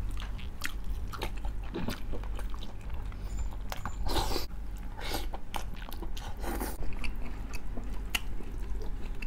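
Close-miked mukbang eating: biting and chewing with many sharp crunches, typical of the crackling deep-fried skin of crispy pata (pork knuckle). A few louder crunches come about four and six and a half seconds in.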